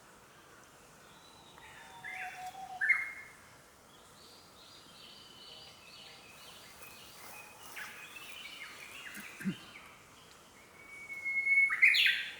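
Forest birdsong: a few short calls, then a run of quick repeated notes, a short clear whistle, and a loud call near the end.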